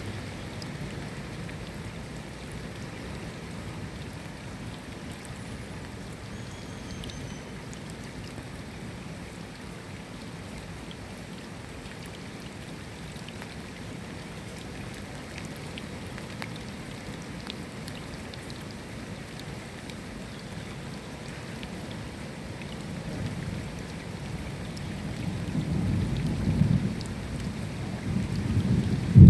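Steady rain falling, an even hiss. Near the end a low rumble of thunder builds and grows louder.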